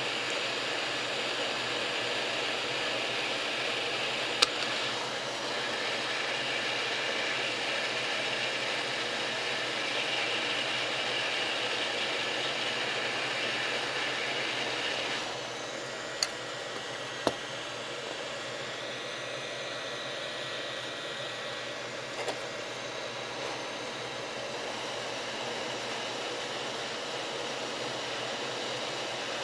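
Hot-air soldering station's fan blowing with a steady rushing hiss, which drops a little and turns duller about halfway through. A few sharp clicks sound over it.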